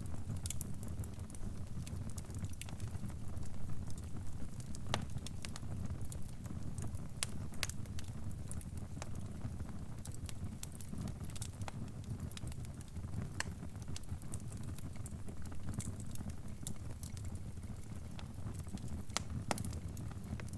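Crackling fire: irregular sharp pops and crackles over a low, steady rumble.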